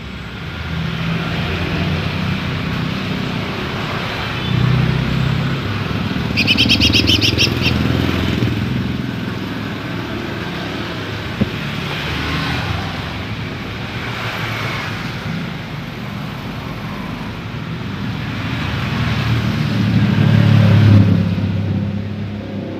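Low engine rumble of passing motor vehicles, swelling and fading several times and loudest near the end. Over it a female lesser green leafbird gives a rapid chattering trill about six seconds in, with a few fainter high calls later.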